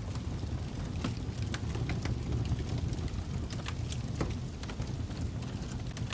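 Wood fire crackling with irregular sharp pops over a steady low rumble of snowstorm wind.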